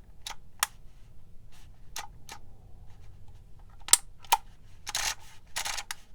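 Handheld label maker clicking irregularly as characters are picked and set, with two short rasping bursts about five seconds in.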